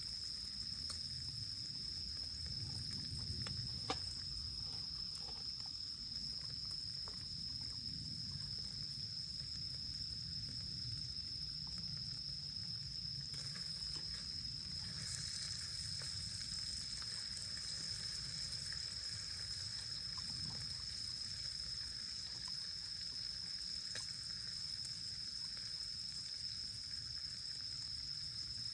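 Quiet outdoor ambience: a steady high-pitched whine over a low rumble, with a few sharp crackles or clicks, the loudest about four seconds in.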